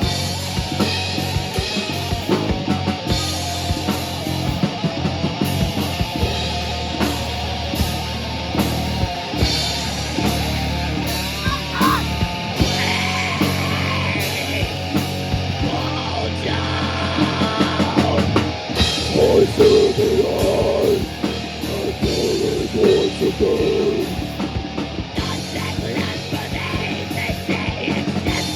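A heavy rock band playing live, with guitars and a drum kit, loud and dense throughout.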